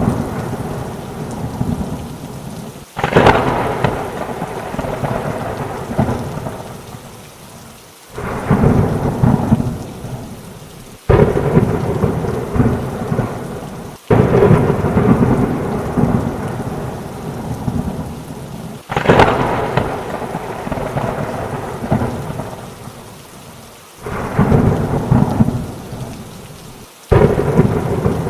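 Heavy rain with thunder. About seven thunderclaps break in suddenly, each rumbling and fading over a few seconds, over a steady hiss of rain.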